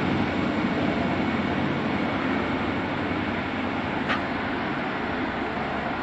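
V/Line diesel train running at the station with a steady rumble that slowly fades. There is one brief high chirp about four seconds in.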